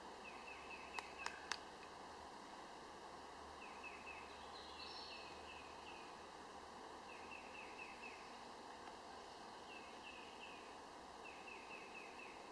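Quiet outdoor background with a bird chirping in quick runs of short, high, falling notes, repeated several times. Three sharp clicks come close together about a second in.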